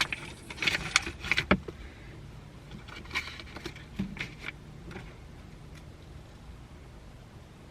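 Plastic clicks and knocks from handling and pressing a suction-cup camera mount: a quick cluster in the first two seconds and a few more between about three and five seconds in.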